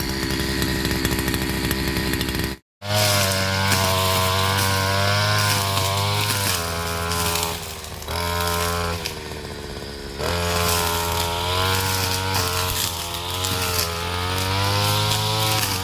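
52 cc two-stroke brush cutter engine running at high revs while clearing grass and weeds. Its speed dips and picks up again several times. There is a brief dropout about three seconds in.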